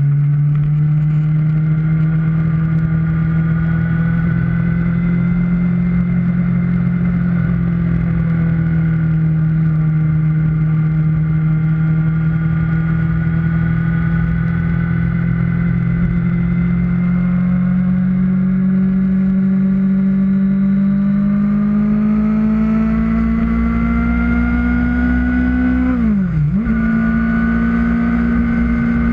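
Kawasaki Ninja ZX-6R inline-four sport bike engine running steadily under way at constant revs. Its pitch creeps up over the later part, then drops sharply and comes straight back about three-quarters of the way in.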